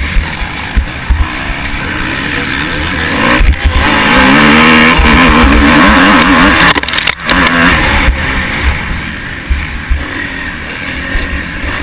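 Motocross bike engine racing under hard throttle, recorded by a camera mounted on the bike or rider, with heavy wind buffeting on the microphone. The engine is loudest from about four to seven seconds in, its pitch rising and falling quickly as the throttle is worked, then drops out sharply for a moment.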